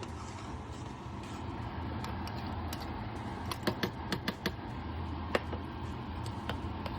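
Kitchen clatter: a quick run of sharp clicks and taps in the middle, then one louder tap, over a steady low hum.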